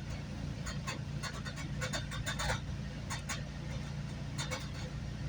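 GO Transit commuter train heard from inside a moving coach: a steady low running rumble with irregular clicks and rattles over it.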